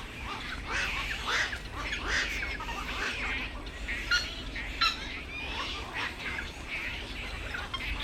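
Black-crowned night herons squawking, many short harsh calls overlapping with no break, over a steady low rumble.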